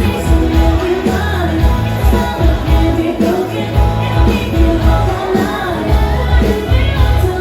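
Pop-rock music from a live stage show: a singer over a band with a heavy, steady bass beat.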